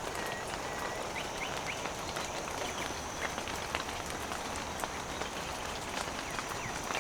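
Steady rain falling, with scattered drops ticking, and a few short high chirps about a second in.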